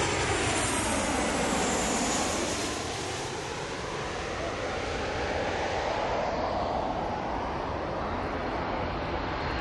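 Airliner engines after takeoff: a steady, loud rushing roar with a high whine that falls in pitch during the first two seconds. The hiss thins out over the second half as the plane moves away.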